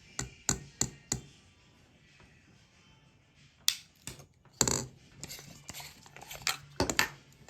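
Irregular sharp clicks and light clinks of small hard objects being handled: four quick ones in the first second, then a denser cluster starting a little under four seconds in.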